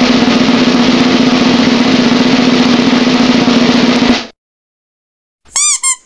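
A loud, steady drum roll lasting about four seconds that cuts off sharply. Near the end come two short squeaky chirps, each rising and then falling in pitch.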